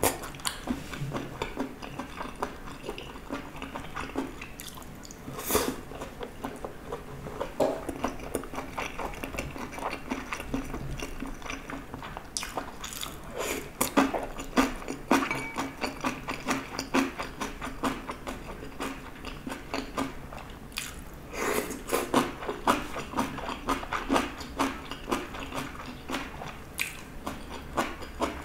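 Close-miked chewing and biting of chewy stir-fried gopchang (intestines) with vegetables: wet mouth sounds and smacks, broken by occasional sharp clicks.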